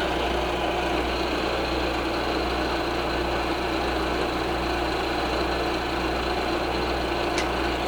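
Milling machine running steadily as the cutter feeds through the end of its final pass across a flat of an aluminium octagon, giving an even machine hum.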